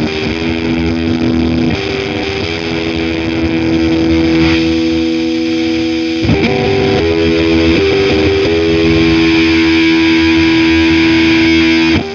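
Electric guitar played through a Mattoverse AirTrash fuzz pedal: heavily distorted, long sustained notes, the pitch changing every second or few seconds, with brief breaks about six seconds in and near the end.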